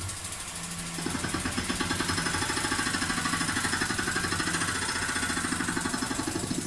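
Tormach PCNC 440 milling machine's spindle running, with a Superfly fly cutter starting to cut into a quarter about a second in: a rapid, even stroke on each revolution of the cutter. The cut is heavy, almost bogging the machine down because the coin sits higher in the fixture.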